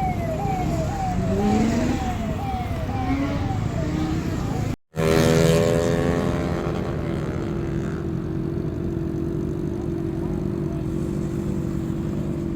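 An electronic siren repeats quick falling sweeps, about two a second, over running vehicle engines. It breaks off at a sudden cut about five seconds in. After that a steady engine drone continues.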